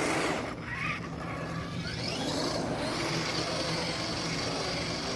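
Traxxas Rustler RC car's brushed electric motor whining up and down in pitch as the car drifts on wet pavement, over a steady hiss.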